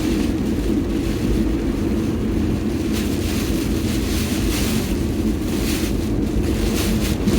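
Car driving on a wet road, heard from inside the cabin: a steady drone of engine and road noise, with hissing swishes of the tyres through water swelling in the middle.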